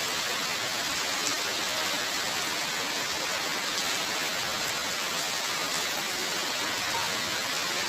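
Heavy rain falling steadily, a constant hiss of drops on surfaces.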